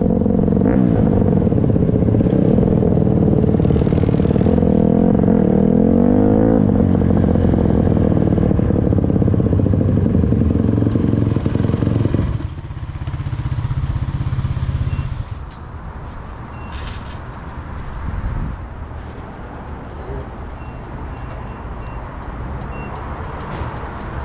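Motorcycle engine running and revving up and down for about twelve seconds. It then drops suddenly to a lower steady note, and a few seconds later falls away to a quieter background of engine and street noise.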